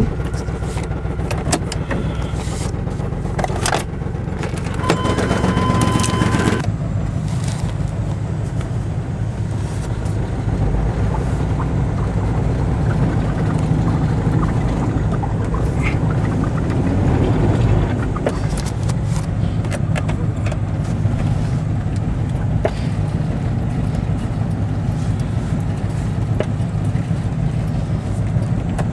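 A 1996 Chevy S-10 Blazer's 4.3-litre V6 running steadily, a continuous low drone through a bad muffler. Its fuel injector spider is faulty.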